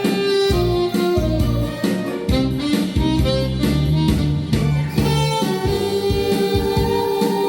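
Saxophone playing a slow melody over an accompaniment with drums, bass and guitar, holding one long note in the second half.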